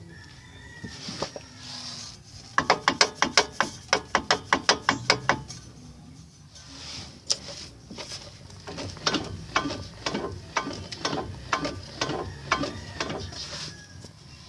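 Drivetrain of a Mitsubishi Lancer Evolution VII clunking over and over in two runs of sharp knocks. The first run is fast, about five a second. The second, slower run comes a few seconds later at about three a second. The clunk is suspected to come from the transmission, transfer case or slip yoke.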